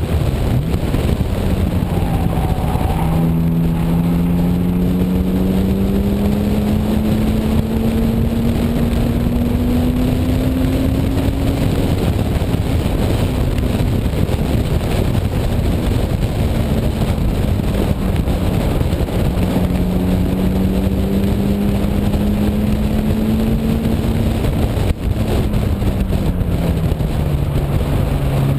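1998 BMW E36 M3's straight-six engine pulling hard on track, with wind rushing over the microphone. Its pitch climbs slowly over several seconds, eases off about twelve seconds in, climbs again, then falls near the end as the car slows for a corner.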